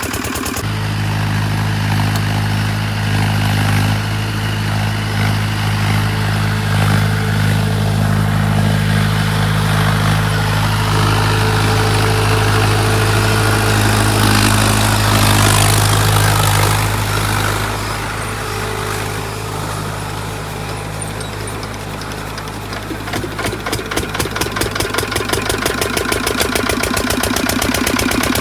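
Tractor engine running steadily with a low hum while puddling a wet paddy field. Near the end a regular pulsing beat of the engine comes to the fore.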